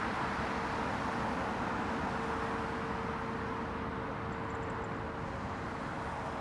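Steady noise of a jet airliner's engines, with a faint constant hum.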